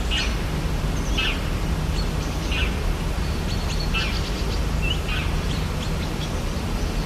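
Rainforest ambience: birds giving short chirps again and again, about once a second, over a steady background hiss.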